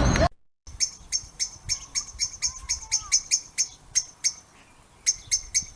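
A small bird chirping: a quick run of short, sharp chirps, about four or five a second, that pauses briefly near the end and then starts again with a few more.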